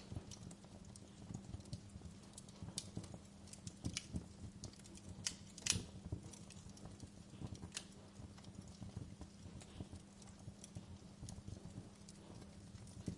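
Wood fire crackling with irregular sharp pops and snaps, the loudest pop a little before halfway, over a steady low hum.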